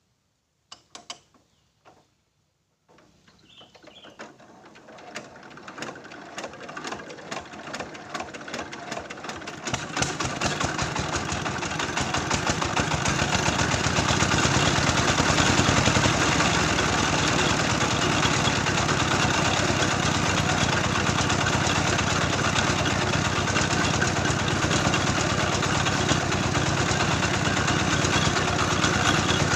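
Engine-driven soil-grinding mill for brick clay starting up: a few clicks, then from about three seconds in the engine runs with a rapid, even chugging that grows louder for about ten seconds before settling into steady running.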